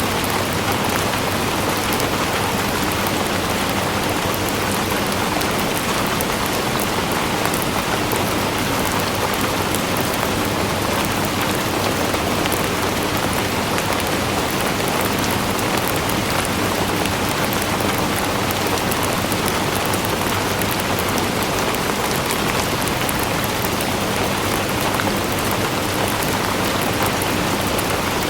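Steady rain falling on a hard surface, an even hiss with fine drop patter, unchanging throughout.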